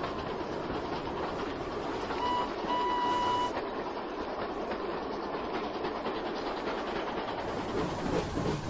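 Steam locomotive running along the rails, a steady rushing, rattling sound, with a short high whistle toot followed by a longer one about two to three seconds in.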